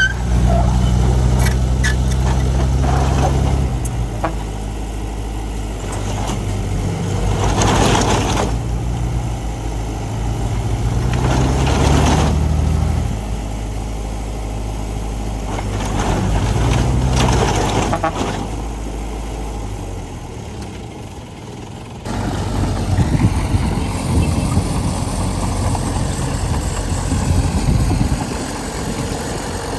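Diesel engine of heavy earthmoving machinery running, getting louder three times as it works harder. About two-thirds of the way through the sound changes abruptly to a rougher, noisier engine sound.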